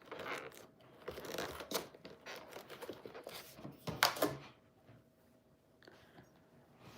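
Irregular rustling and crinkling with a few sharp clicks, stopping about four and a half seconds in.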